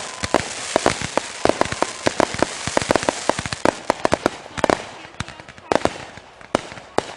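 Fireworks going off: a dense, rapid run of sharp cracks and pops over a hiss, thinning out to a few scattered bangs over the last two seconds.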